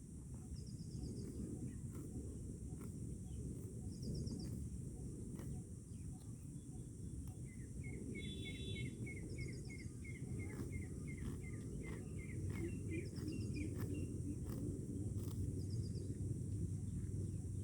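Birds chirping outdoors in the countryside: short quick trills repeat every few seconds, and a run of rapid repeated call notes sounds through the middle. Underneath is a steady low rumble and a constant high hiss.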